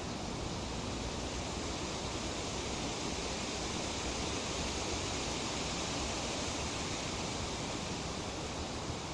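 Breeze rustling through tree leaves: a steady, even hiss that swells a little around the middle.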